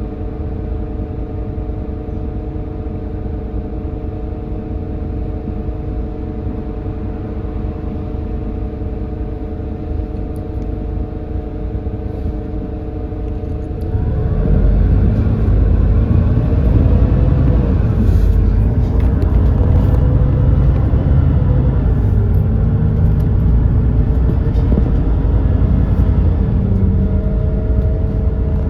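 The GX12P natural-gas engine of a Smart 110G city bus idles with a steady drone. About halfway through it grows louder under load, as the bus pulls away, and its pitch rises and falls as it runs on.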